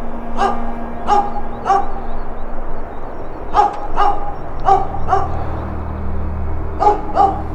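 An animal calling in short, sharp barks, about nine in all, in three bunches of two to four, over a faint steady drone.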